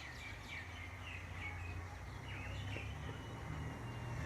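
Small birds chirping in short calls, with one long thin whistle in the second half, over a steady low background rumble.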